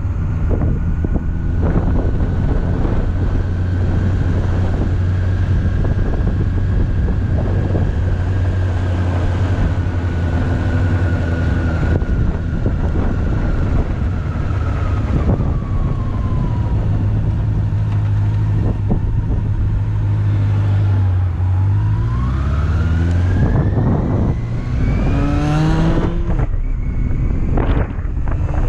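2007 Honda CB400SF's inline-four engine running at steady cruising revs, heard from the rider's position, then revving up in one long rising pitch near the end before it breaks off, as at an upshift.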